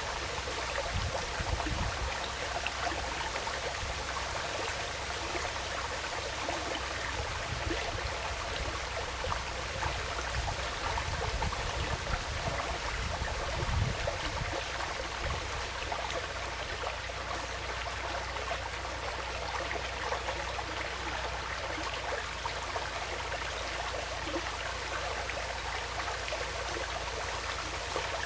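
Forest stream flowing and trickling steadily, with irregular low rumbles in the first half.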